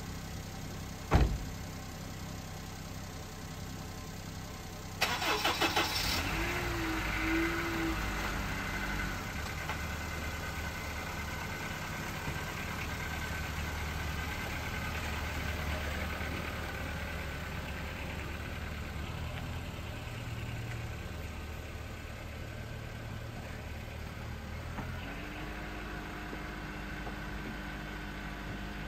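A knock about a second in. About five seconds in, a car engine cranks and starts, then runs steadily; the hum shifts near the end.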